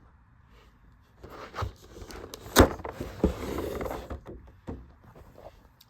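A figure's cardboard box being handled and pulled open: scattered clicks and scraping, with a sharp snap about two and a half seconds in and a rough scrape just after.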